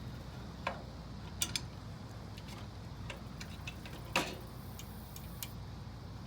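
Light metal clicks and knocks at irregular intervals, the loudest about four seconds in, from the tiller's rear depth (drag) bar being raised and set out of the way, over a steady low rumble.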